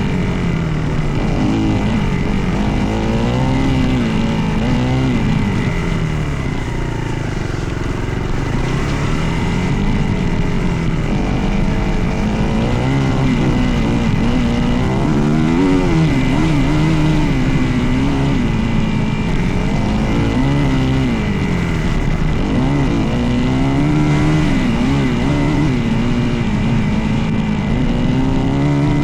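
Dirt bike engine being ridden, its pitch climbing and dropping every few seconds as the throttle is opened and closed through gears.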